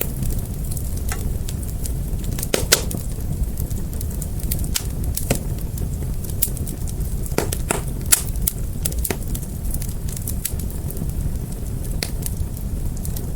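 Fire crackling: irregular sharp pops and snaps over a steady low rumble of flame, with two louder pops.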